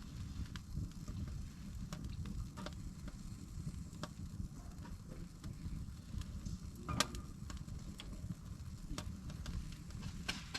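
Wood fire crackling, with scattered sharp pops over a steady low rumble; one louder pop about seven seconds in.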